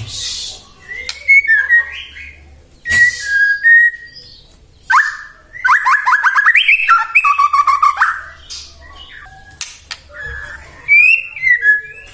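White-rumped shama singing in full song: varied loud whistled phrases broken by harsh, scratchy notes, with a fast run of quickly repeated rising notes and trills in the middle.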